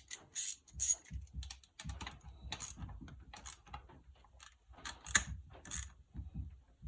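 Hand ratchet clicking in short irregular runs as small M6 bolts are snugged down by hand.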